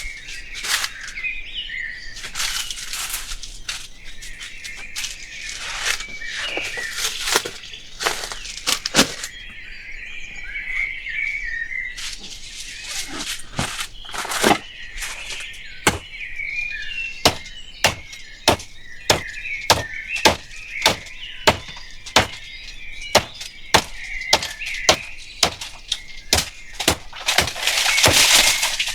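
Birds chirping steadily, overlaid by a long run of sharp knocks that come about two a second through the second half, with a brief rush of noise near the end.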